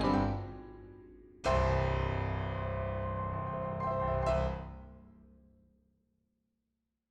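Background piano music ending: a chord about a second and a half in, another about four seconds in, then the notes die away into silence.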